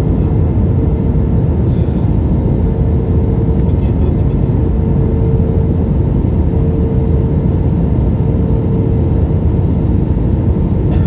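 Steady roar of engines and airflow heard inside an airplane cabin, with a constant hum running under it.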